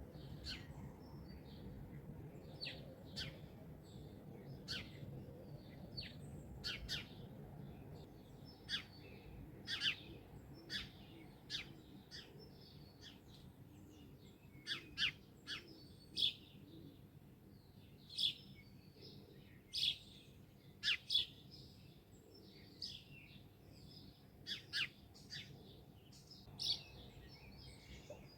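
Several songbirds chirping and calling in an irregular stream of short, high notes over a faint low background rumble.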